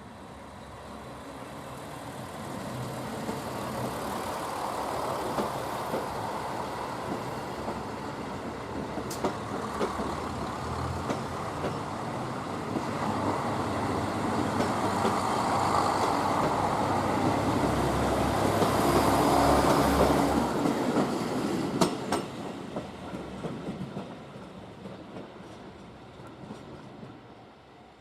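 A train passing close by: its rumble builds through the first half, is loudest about two-thirds of the way through, then fades away, with a few sharp clicks along the way.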